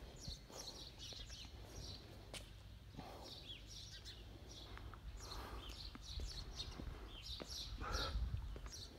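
Small birds chirping in quick runs of short, high notes, some sliding downward, over a low rumble.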